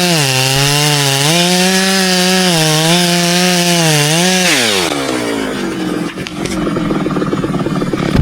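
Two-stroke chainsaw cutting birch at full throttle, its pitch sagging and recovering several times as the chain bites into the wood. About halfway through, the throttle is released and the engine drops to a rough idle.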